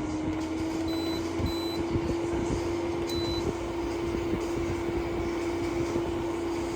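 Frigidaire window air conditioner running with a steady hum over a rush of air, its motor tone rising slightly in pitch during the first second as it spins up, then holding steady. Three short high beeps from its control panel, two close together about a second in and one about three seconds in.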